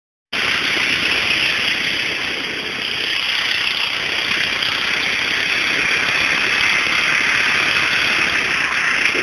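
Murray garden tractor's engine running steadily.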